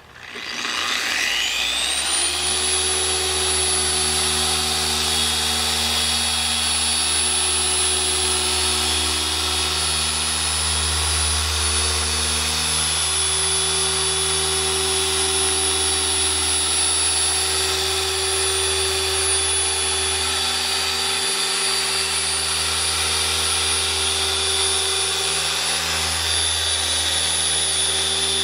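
Electric car-paint polisher starting up and rising to its highest speed over about two seconds, then running steadily with a high whine as it works polish into the paint.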